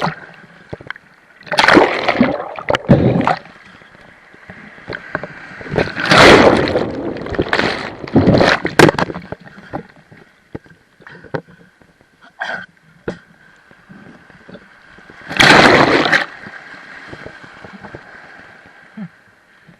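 Rough sea water splashing and sloshing in irregular loud surges, with gurgling between them, around a swimmer at the surface in whitecapped waves.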